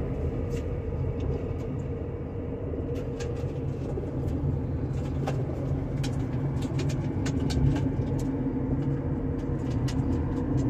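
Steady low road and engine rumble heard inside a moving car's cabin, with a few faint scattered clicks.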